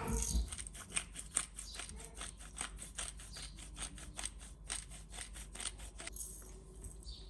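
Pepper mill grinding: a rapid run of crisp crunching clicks, about five a second, that stops about six seconds in.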